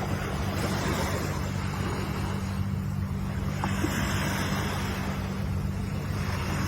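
Ocean surf washing in continuous waves, the hiss of the water swelling and easing every few seconds, over a steady low hum.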